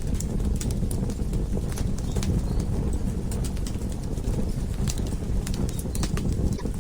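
Wood fire burning in a fireplace: a steady low rumble with irregular sharp crackles and pops, several a few seconds apart.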